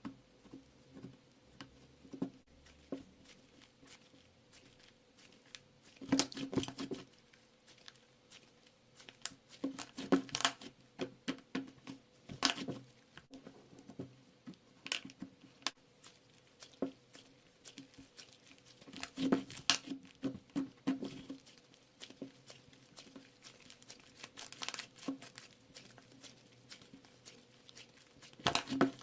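Irregular rustling, crinkling and tapping of crinkly material such as paper or plastic being handled close up, in several louder bursts.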